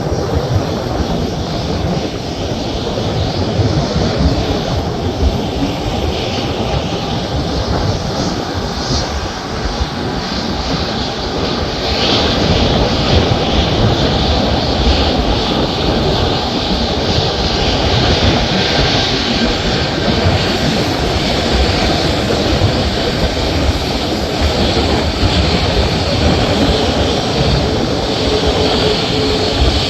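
Airliner engines running at low taxi power as the plane parks: a steady, loud rushing noise that grows louder about twelve seconds in. A faint steady whine comes in near the end.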